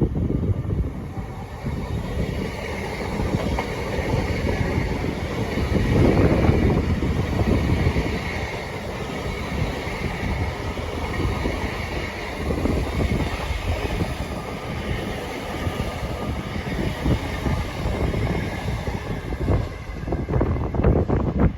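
Train passing through a station at speed without stopping: a steady rumble of wheels on the rails, with sharp wheel clicks over the rail joints coming thick and fast near the end.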